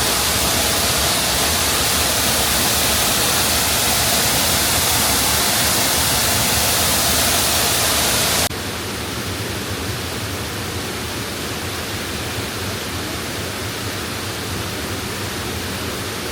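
Waterfall rushing, a loud steady hiss of falling water. About halfway through it drops suddenly to a quieter, duller rush.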